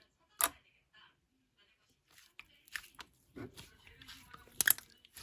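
Sky-blue iClay lightweight clay being handled: a single click, a short pause, then soft crackling and tearing as the clay is squeezed and pulled apart, with one sharper crack near the end.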